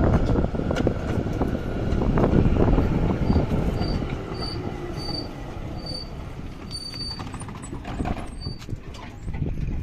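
A very old, worn-out tram running on its rails: a steady rumble and rattle that is loudest in the first few seconds. From about three seconds in it is joined by a run of short, high-pitched wheel squeals.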